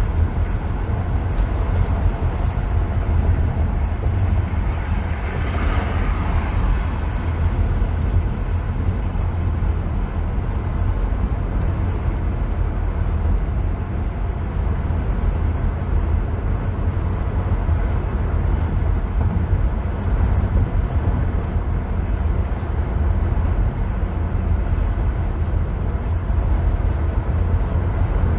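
Steady road noise of a vehicle driving on a freeway: a constant deep rumble with tyre and wind hiss above it. About five to six seconds in, the hiss swells briefly.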